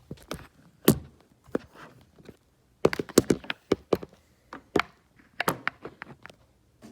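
Packaging being pulled off and handled as a new motorcycle exhaust silencer is unwrapped: an irregular run of knocks, taps and rustles, loudest about a second in and in a quick cluster around three seconds in.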